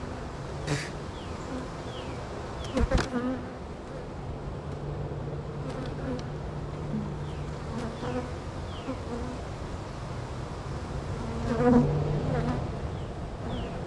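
Honey bees buzzing around an open hive, a continuous hum that swells and steadies at times. A few knocks from the hive being handled break through, loudest about three seconds in and again near twelve seconds.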